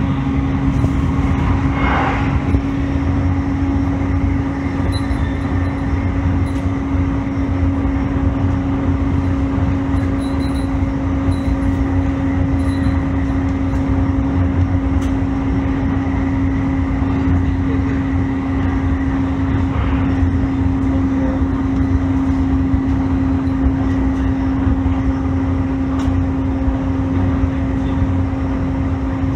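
E531 series electric multiple unit running at steady speed: a continuous rumble with a steady hum held at one pitch.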